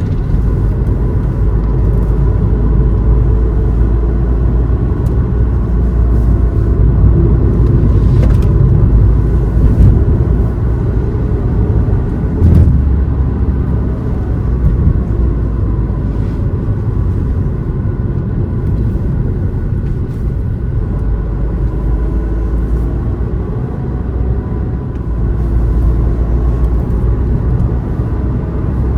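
Car driving, a steady low engine and road rumble throughout, with one sharp thump about twelve seconds in.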